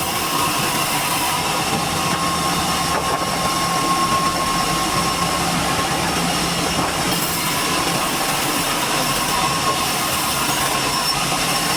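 Sawmill saw running on durian wood: a steady mechanical noise with a thin, high whine over it.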